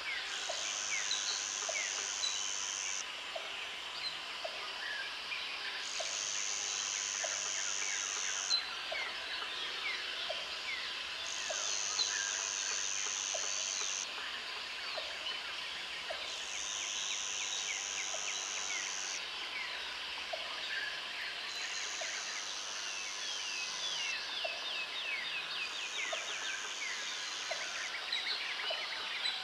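Jungle ambience: a high insect buzz that comes in six bursts of about three seconds, with gaps of similar length, over a steady chorus of many birds calling with quick chirps and trills.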